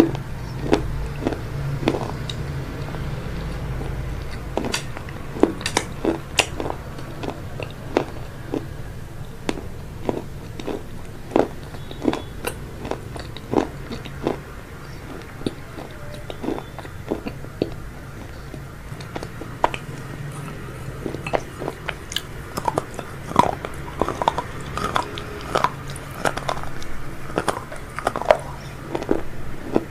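Close-miked chewing and biting of crispy food, with many short irregular crunches that come thicker and louder toward the end, over a steady low hum.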